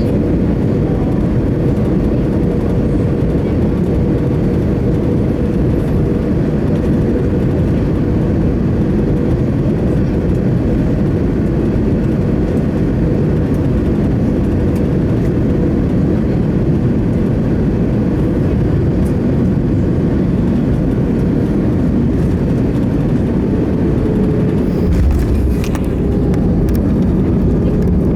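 Cabin noise of an Airbus A319 airliner: a steady rumble and rush of the engines and airflow, with a faint steady whine that fades out midway. Near the end the rumble briefly swells, with a soft thump and a few clicks.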